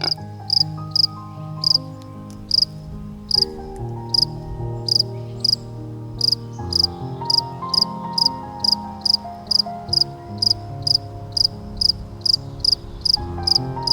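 A short, high chirp repeated evenly, at first slowly and then about two to three times a second, over soft sustained background music.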